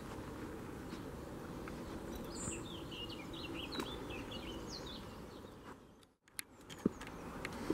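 A bird chirping a quick series of short notes over steady outdoor background noise. The sound drops out briefly about six seconds in, followed by a few sharp clicks.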